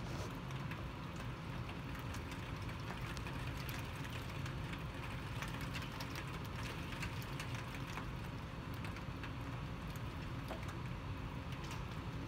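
Heavy rain falling steadily, dotted with scattered sharp ticks of drops, over a steady low rumble.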